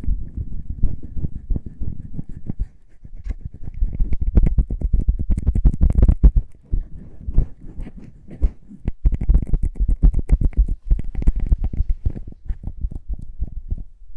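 Close-miked lip balm ASMR sounds: fast, irregular tapping and rubbing strokes on the lip balm, with a few quieter gaps.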